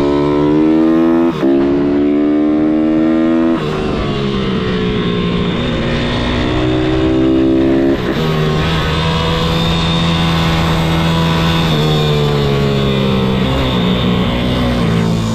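A 160 cc single-cylinder four-stroke MRF 160-R SM pit bike is ridden hard round a track. Its engine pitch climbs in pulls that break off at gear changes and throttle lifts, then climbs again.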